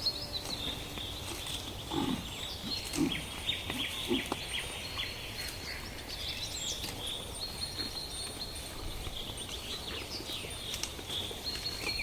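Insects and birds chirping steadily, with a few short, low animal grunts about two to four seconds in.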